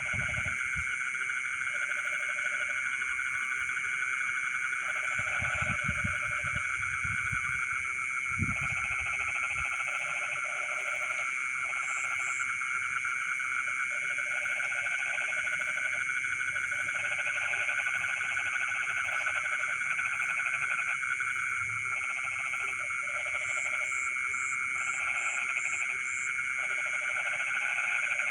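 Night chorus of frogs in flooded rice fields: a dense, steady trilling with lower croaking calls that come and go in bouts of a second or two.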